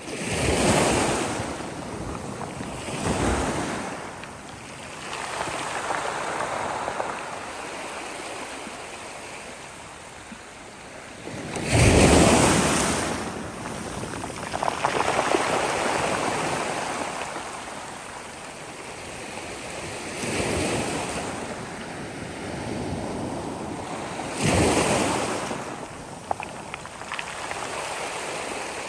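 Sea waves breaking on a shore, several surges crashing and washing back, the loudest about halfway through, over a constant hiss of surf.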